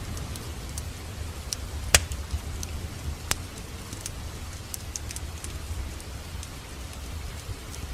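Wood fire crackling, with scattered sharp pops over a steady low rumble of flames; the loudest pop comes about two seconds in, and another just after three seconds.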